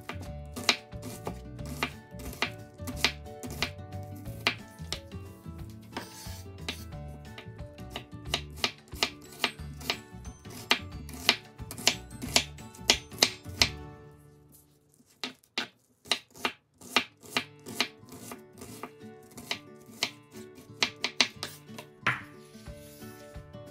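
Chef's knife chopping an onion on a wooden cutting board: a run of sharp strikes on the board, a few per second, pausing briefly about fifteen seconds in.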